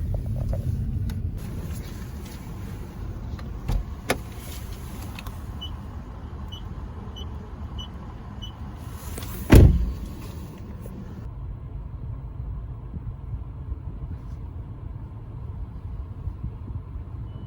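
Car engine idling as a steady low rumble, with five short electronic beeps evenly spaced a little over half a second apart, then one loud thump near the middle.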